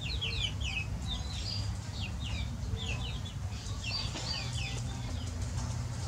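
Small birds chirping: short, high chirps coming in quick clusters every second or so, over a low steady rumble.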